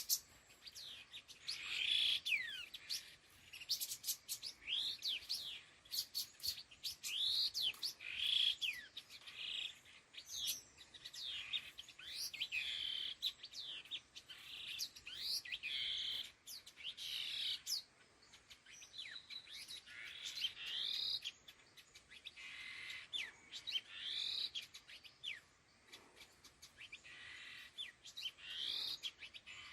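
Khướu lùn đuôi hung, a minla, calling: phrases of short, high, quickly sweeping whistled chirps, repeated every second or two, the flock-gathering call.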